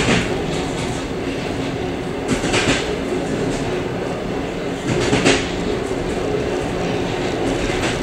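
Suburban passenger train running on the line, heard from inside its vestibule: a steady rumble of wheels on rail, with a clickety-clack of wheels crossing rail joints about every two and a half seconds.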